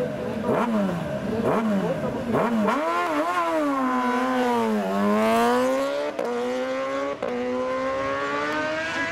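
Superbike racing motorcycle engine at full throttle on a hill climb, revving hard through quick gear changes at first. The pitch drops off for a corner, then climbs steadily again with two quick upshifts.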